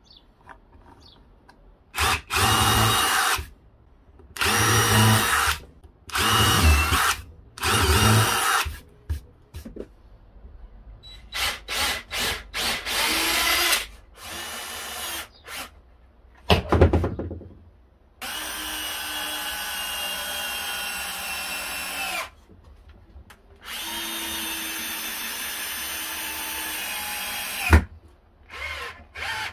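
Power drill running in a series of bursts: four loud ones of about a second each, several shorter ones, then two steady runs of about four seconds each at a constant speed.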